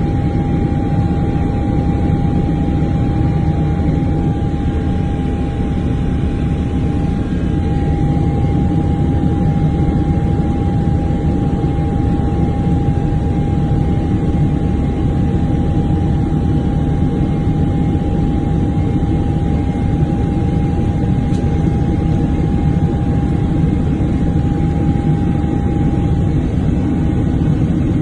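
Aircraft engine noise heard inside a passenger cabin during the flight: a loud, steady low rumble with one constant whining tone over it.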